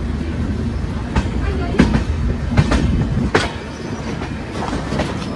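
Indian Railways passenger coach running along the track, heard from its open door: a steady low rumble of wheels on rail, broken by irregular sharp clacks as the wheels pass over rail joints, the loudest a little under two seconds in and again past the three-second mark.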